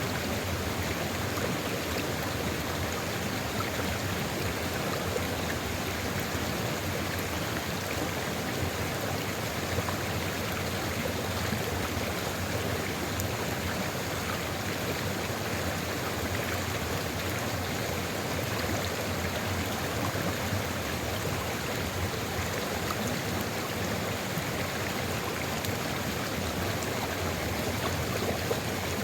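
Flowing water of a sulfur river, a steady, even rushing and gurgling with no breaks.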